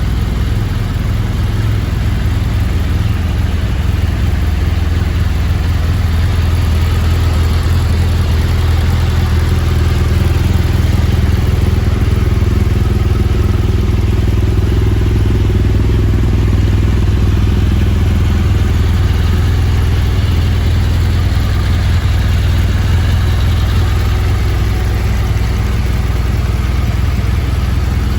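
Motorcycle engine running steadily, a low, even drone that swells slightly around the middle.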